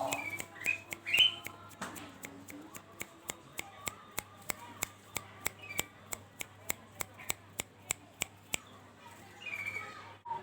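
Zebra dove (perkutut) calling faintly over a steady ticking of about three clicks a second, which stops near the end; short high chirps come early on.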